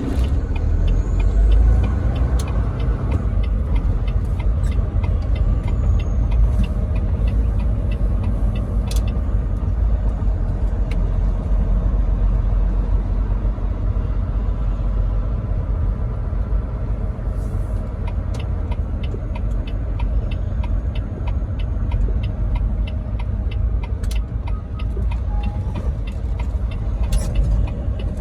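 Semi truck on the road: a steady, heavy low engine and road rumble, with a quick, even run of light ticks through much of it.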